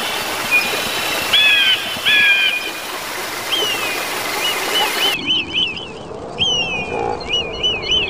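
Birds chirping over a steady rush of running water. A little past five seconds the water sound cuts off abruptly, leaving a quick run of repeated rising-and-falling chirps.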